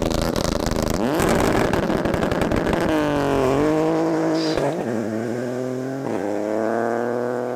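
Ford Fiesta rally car engine, heard from inside the cabin, held at raised revs on the stage start line, with the pitch rising and dipping as the throttle is worked and stepping down twice near the end.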